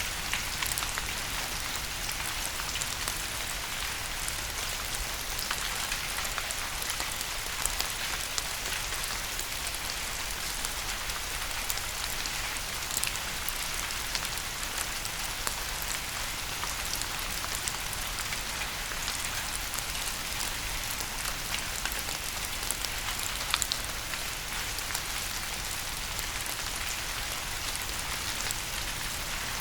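Steady rain falling on a hard surface: an even hiss with scattered sharp drop ticks.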